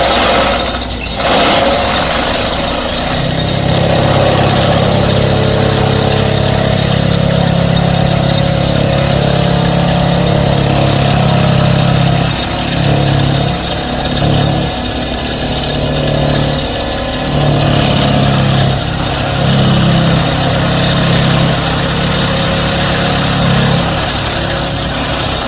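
Excavator-mounted hydraulic vibro pile driver running with a loud, steady low hum over the excavator's diesel engine. The hum starts a few seconds in, then cuts out and restarts several times in the second half.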